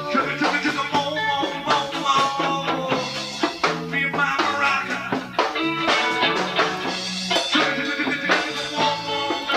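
A live rock band of electric guitar, bass guitar, drums and bongos playing a song, with a steady beat and a bass line.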